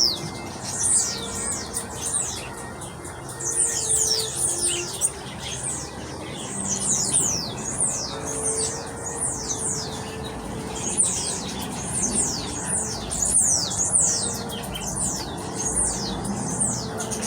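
Many small aviary birds chirping: quick, high notes that sweep downward, coming in busy bursts every second or two, over a low background murmur.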